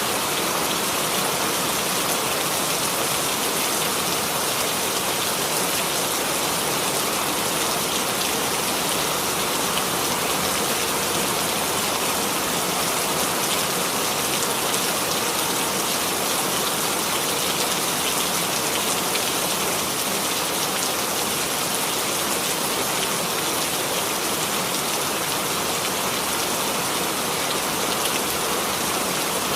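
Steady rain falling on a hard surface, a continuous even patter of many drops without a break.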